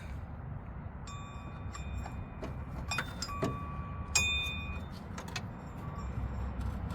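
Metal hand tools clinking and tapping against metal parts while being fitted to a bolt, several irregular clicks, some with short ringing tones, over a low steady rumble.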